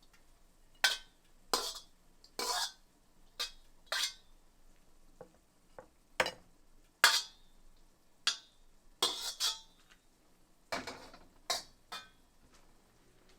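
Kitchen utensils and dishes clattering: about a dozen sharp clinks and clacks at irregular intervals, some ringing briefly, as cookware and tableware are handled.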